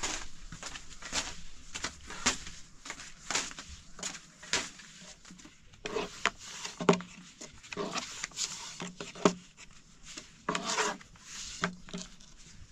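Irregular rubbing and scraping strokes, spaced about a second apart at first and coming faster in the second half.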